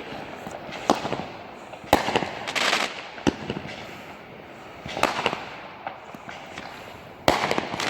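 Fireworks going off: a string of sharp bangs about a second or two apart, some followed by crackling, with a louder bang and a longer crackle near the end.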